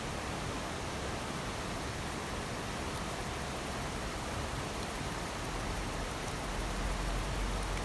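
Steady rain, a continuous even hiss, with a low rumble growing stronger near the end.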